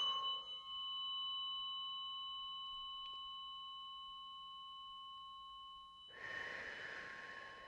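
A struck tuning fork ringing on with a clear high tone and higher overtones, slowly fading. About six seconds in, a long audible exhale over the ringing.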